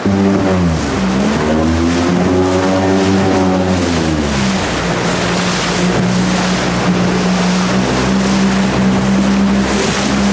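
Jet boat engine running under way, its pitch swelling up and back down over the first few seconds, then holding steady, with another rise near the end. Rushing water and wind noise run under it.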